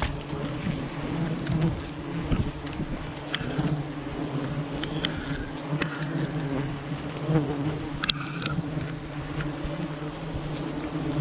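A mass of honey bees at a wild hive buzzing in a steady, dense drone, with scattered light clicks and taps.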